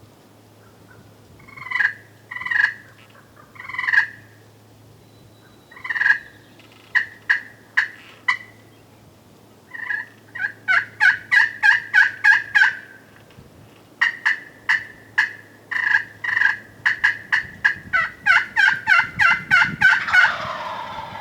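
Turkey yelping: a few spaced yelps, then faster runs of short yelps several to the second, ending in a louder, rougher burst near the end.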